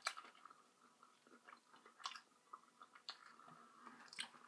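A person chewing breaded fried chicken close to the microphone, faint, with a few sharp clicks about a second apart, the loudest at the very start.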